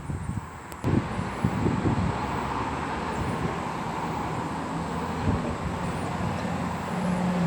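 A click, then a steady rushing noise of passing road traffic that starts suddenly about a second in, with a vehicle engine's low hum building near the end.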